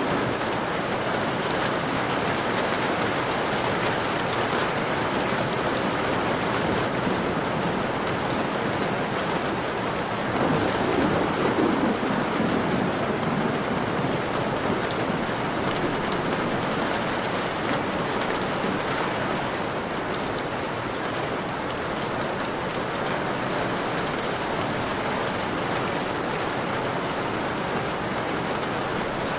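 Steady rain on a window glass, a dense hiss of drops with scattered sharper taps. A low rumble swells for about two seconds roughly ten seconds in.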